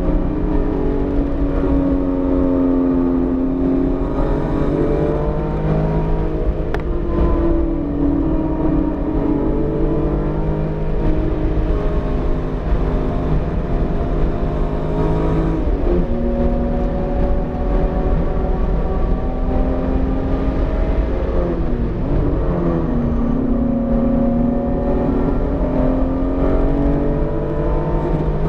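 BMW E46 M3's inline-six engine under load on track, its note climbing slowly and falling sharply several times as the car accelerates, shifts and slows, over a steady rumble of road and wind noise. The engine is freshly built and still being broken in, held below 7,000 rpm.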